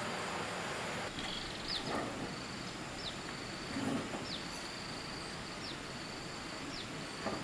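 Outdoor ambience: a high, steady insect-like drone that breaks off now and then, crossed by short downward chirps about once a second. A broad rushing noise stops about a second in, and there is a soft knock near the middle.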